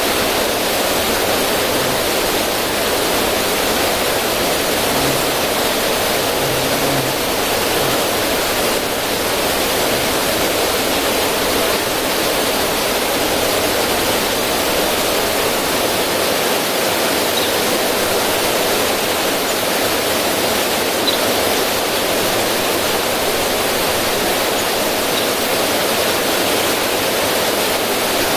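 Steady rush of a river's current splashing over rocks in a small waterfall, an even unbroken sound of running water.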